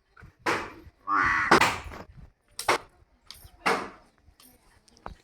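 A run of short, harsh animal calls, about five in a few seconds; the longest and loudest comes a little over a second in. A short knock follows near the end.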